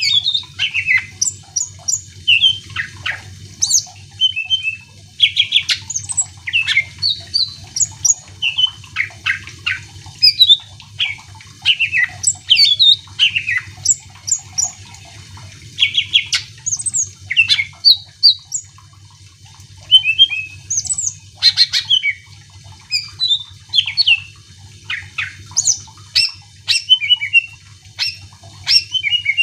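Cucak ijo (greater green leafbird) in full song: a rapid run of varied short whistles, chirps and trills, broken by a couple of brief pauses.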